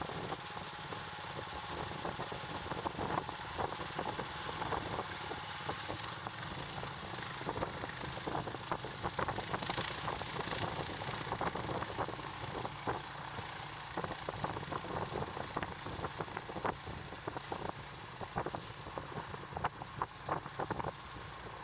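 An engine running steadily, with irregular clicks and knocks throughout and a brief hiss about ten seconds in.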